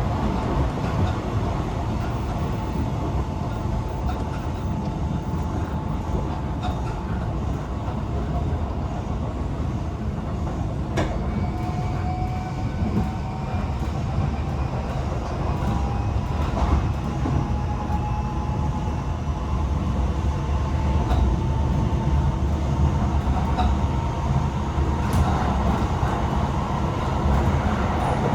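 Running sound inside a Tokyo Metro 18000 series electric train car at speed: a steady rumble of wheels on rail, with a faint whine that slowly shifts in pitch and a few sharp clicks.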